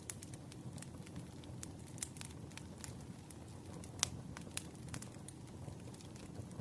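Firewood burning: a steady low rumble of flames with irregular sharp crackles and pops, the loudest pop about four seconds in.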